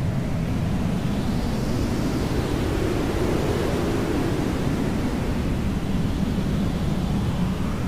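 Hair dryer running steadily as white noise: a constant, low-heavy hiss with no breaks. Its tone sweeps slowly up and back down, once in the first half and again near the end.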